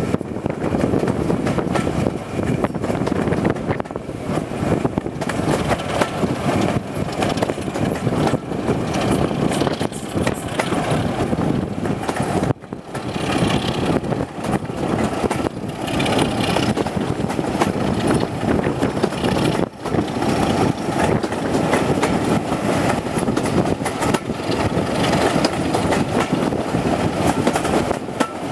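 Passenger train in motion heard from an open coach window behind the Class 26 diesel locomotive: a steady, loud rumble and clatter of the coaches on the track, mixed with rushing air. The level dips briefly twice.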